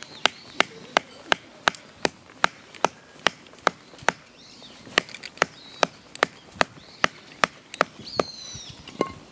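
Steady chopping, about two and a half sharp strokes a second, with a short break about four seconds in. Birds chirp faintly.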